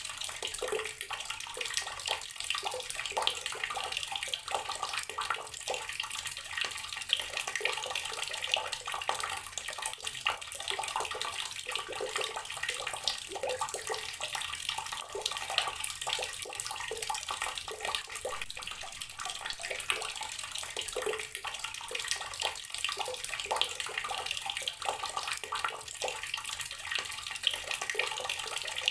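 Water running steadily from a tap and splashing into a basin or tub below, a continuous bright splashing with many small spatters.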